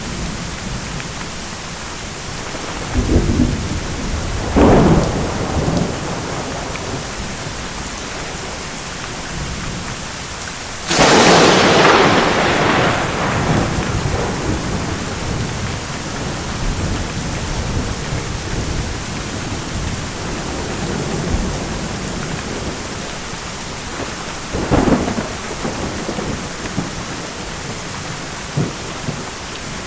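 Steady rain falling through a thunderstorm, with several claps of thunder: two close together a few seconds in, the loudest sharp crack about a third of the way through that rolls off over a few seconds, and another clap near the end.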